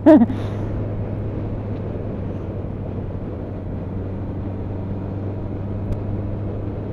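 Motorcycle engine running at a steady speed on the move, a constant even hum over road and wind noise.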